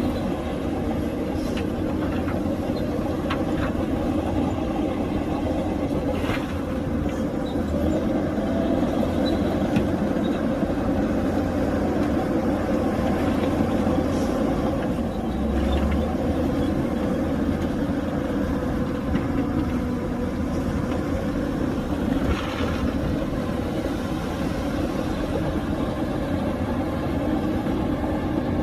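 Heavy diesel earthmoving machinery, bulldozer and dump trucks, running steadily, with a few short clanks here and there.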